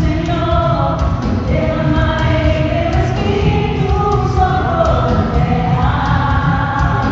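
A choir or congregation singing a gospel worship song over a full band with heavy, dense bass.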